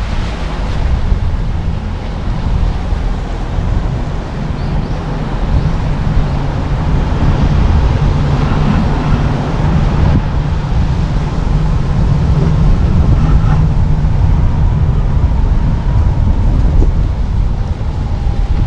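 A car driving on a road: steady low road and engine noise, with wind buffeting the microphone.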